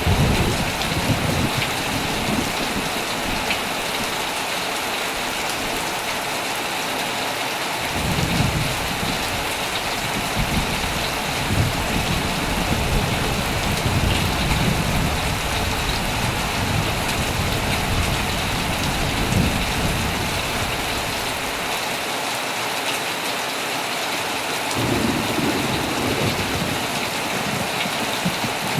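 Heavy rain beating steadily on a tent. Low thunder rumbles come and go: briefly at the start, as a long roll from about eight to twenty seconds in, and again near the end.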